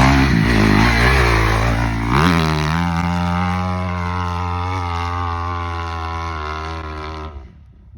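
Honda CRF250R dirt bike engine at full throttle climbing a sand hill: the revs rise about two seconds in, then hold a steady high pitch while slowly fading, and the sound cuts off shortly before the end.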